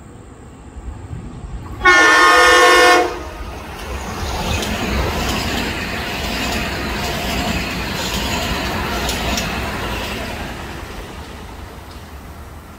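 A Metro-North electric commuter train sounds one short horn blast, about a second long, about two seconds in. It then runs past, the noise of its wheels on the rails swelling and then fading near the end.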